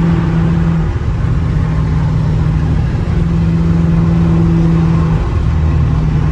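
Straight-piped Dodge Charger R/T's 5.7-litre HEMI V8 running on the move, a loud, steady exhaust drone. The drone breaks off briefly about a second in and again about five seconds in, then carries on.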